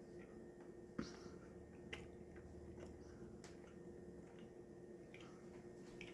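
Faint chewing on a mouthful of chicken, bacon and ranch wrap during a taste test, with a few soft clicks of the mouth and jaw over a steady low hum.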